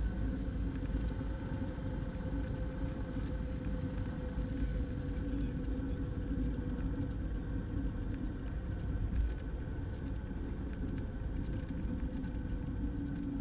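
Cessna 172's piston engine running at low power with a steady low drone, heard inside the cabin, as the plane rolls off the runway after landing.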